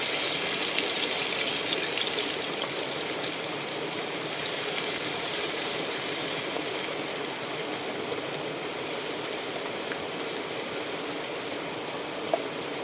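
Pounded chili-and-garlic curry paste sizzling in hot oil. The sizzle jumps up as the paste goes in, swells again about four and a half seconds in, then settles to a steadier hiss.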